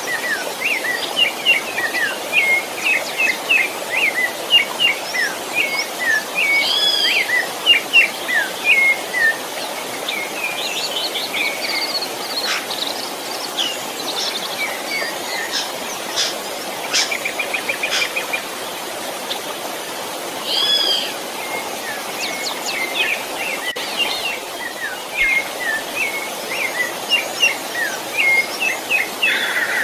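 Birdsong: a fast, varied run of high chirps and short warbled phrases, over a steady background hiss.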